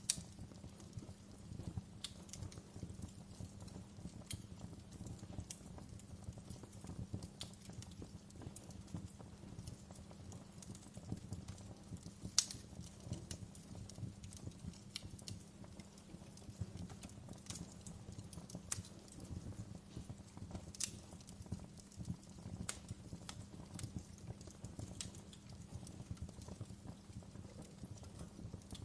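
Wood fire crackling in a fireplace: a steady low rumble of burning with sharp pops and snaps every second or two, the loudest about twelve seconds in.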